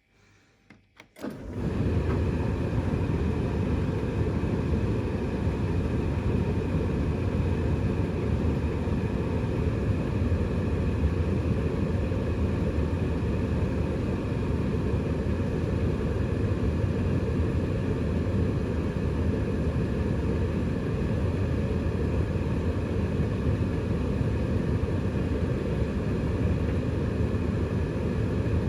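Siemens Extraklasse XLS 140 A washing machine spinning at speed, likely the final spin of its boil-wash cycle: a loud, steady rumble that starts abruptly about a second in and holds even.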